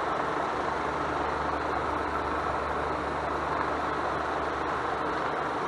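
Steady low hum and hiss of background noise, even throughout, with no knocks or bird calls.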